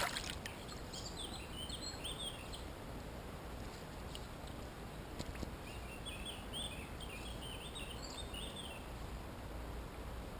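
A small songbird singing in two quick, warbling phrases, one near the start and a longer one in the second half, over a steady background hiss. A short splash right at the start as a hand moves through the water.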